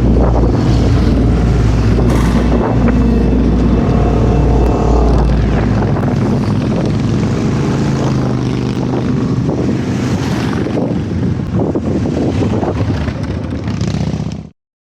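A motor vehicle engine running and revving, cutting off abruptly near the end.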